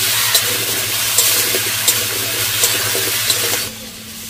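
Diced potatoes frying in hot oil in a kadai: a steady, loud hissing sizzle, with a ladle stirring and tapping the pan at an even pace. The sizzle drops off sharply near the end.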